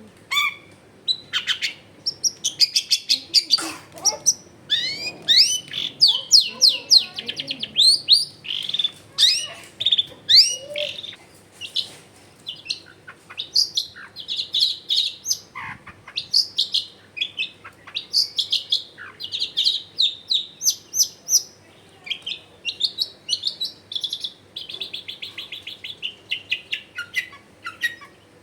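Long-tailed shrike (cendet) singing vigorously: a nearly unbroken run of fast, chattering, sweeping notes and trills, its song full of mimicked phrases.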